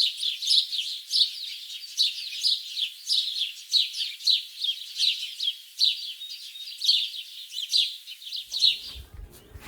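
Small birds chirping: quick, high, falling notes several times a second, which stop abruptly near the end as a faint low rumble comes in.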